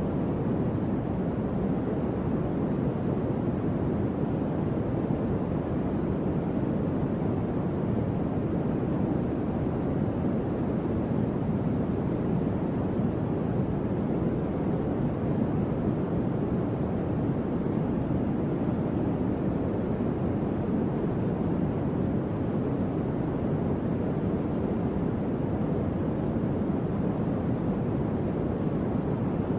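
Electric fan running steadily: a constant low, even whoosh of moving air with no hum or rattle.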